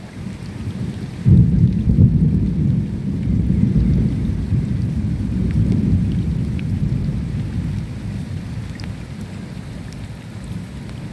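Thunder rumbling over steady rain: a deep rumble breaks in suddenly about a second in and slowly dies away over several seconds, with rain hissing throughout.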